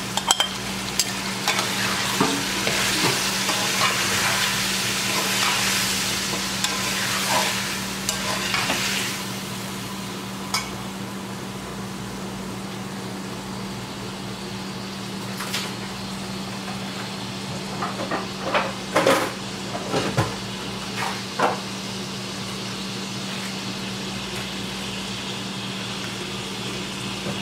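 Chicken pieces and freshly added chopped tomatoes frying in hot oil in a pan. The sizzling is loud for the first several seconds, then dies down. A slotted spatula stirs and scrapes against the pan, with a few clattering scrapes about two-thirds of the way through.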